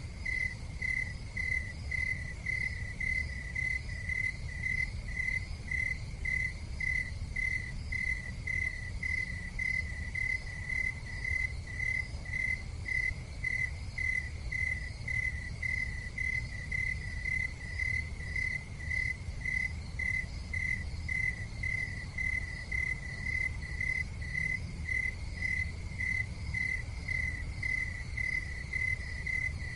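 Cricket chirping steadily in an even rhythm, about two chirps a second, over a low steady rumble.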